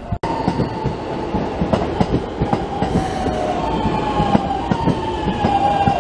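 Electric train running through the station: a steady whine that dips slightly in pitch and then holds, over a rumble with wheel clicks on the rails. The sound briefly cuts out just after the start.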